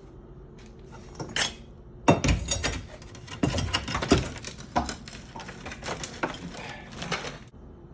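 Knocking and clattering as a stuck countertop is banged and forced to break it loose: a couple of knocks, then a dense, irregular run of knocks and rattles that stops suddenly near the end.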